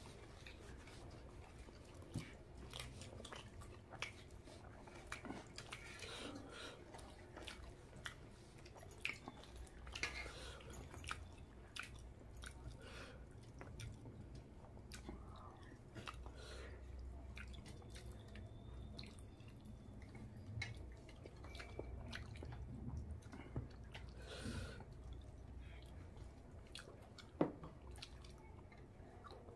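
Faint close-miked chewing of rice with fish curry and egg curry eaten by hand, with a steady run of small wet mouth clicks and one sharper click near the end.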